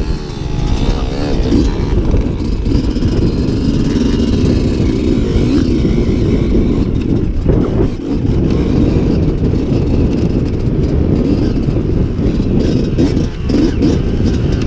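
Dirt bike engines running and revving.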